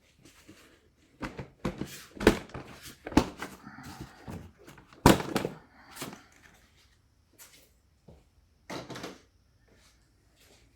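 Hands working the oxygen sensor's plastic wiring connector in the engine bay: a run of sharp clicks and knocks with some rustling, the loudest about five seconds in, and a short cluster of clicks near the end.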